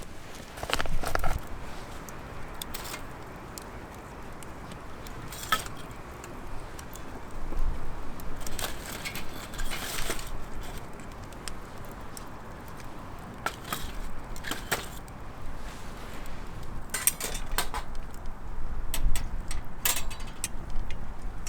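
Irregular small clinks, taps and knocks, as of metal camp gear being handled, over a low rumble.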